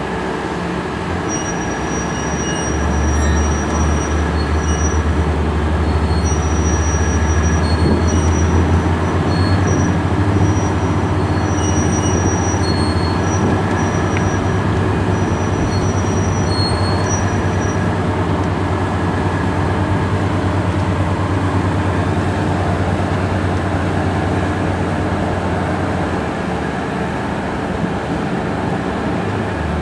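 Boat engine running hard with a steady low drone, growing louder about three seconds in and easing slightly near the end. Short high-pitched squeals come and go over the first half.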